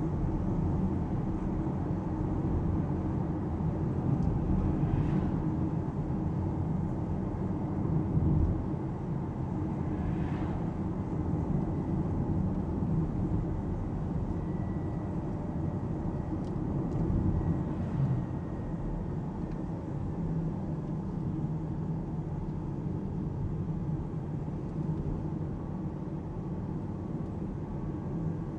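Alpine A390 electric car driving, its road and tyre noise a steady low rumble in the cabin, with a faint high tone for several seconds midway.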